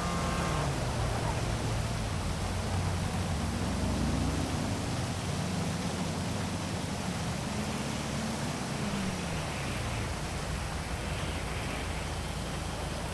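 Steady heavy rain hiss over city traffic. Through the middle, a low engine hum rises and then falls in pitch as a vehicle passes.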